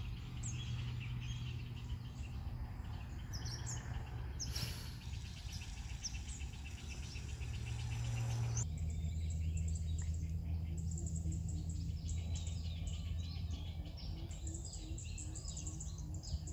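Birds chirping and calling repeatedly in short high notes, over a steady low background hum that shifts abruptly about halfway through.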